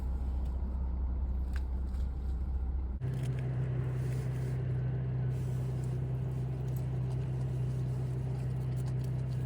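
Steady low hum of a car's engine heard from inside the cabin. About three seconds in the hum shifts suddenly to a higher pitch.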